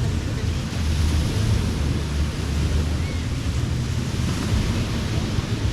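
Ocean surf washing steadily onto a sandy beach, with wind buffeting the microphone as a low rumble.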